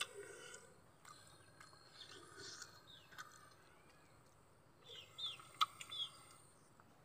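Faint bird chirps over a quiet background, with a few short falling chirps about five seconds in and a single sharp click among them.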